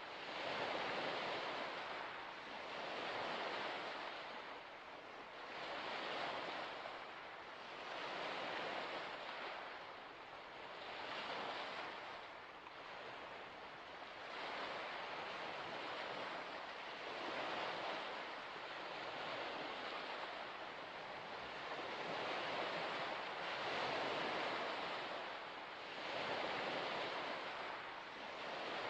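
Small waves washing onto a shore: a steady, noisy wash that swells and eases every couple of seconds.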